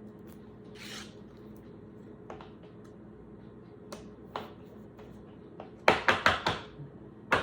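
Handling of a trading card and a plastic card protector: a soft swish, a few light ticks, then a quick run of sharp taps and clicks near the end, over a faint steady hum.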